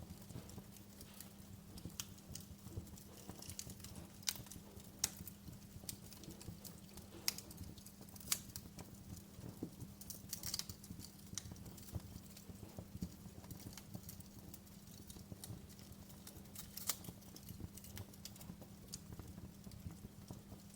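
Wood fire crackling in a fireplace: irregular sharp snaps and pops, a few louder ones between about four and nine seconds in, over a steady low hum.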